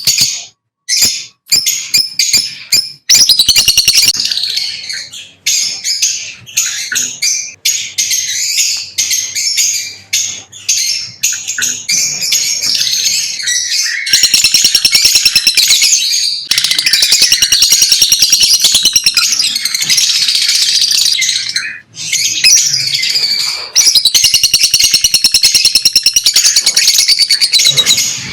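Lovebirds chattering in rapid, high-pitched chirps, broken at first and nearly continuous from about halfway through, with a couple of brief pauses.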